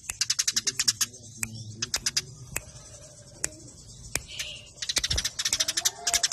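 Eurasian tree sparrows giving fast, agitated fighting chirps, sharp high notes in rapid runs of about ten a second. A stretch of scattered single chirps comes in the middle, and the dense chattering resumes near the end. A single low thump is heard about five seconds in.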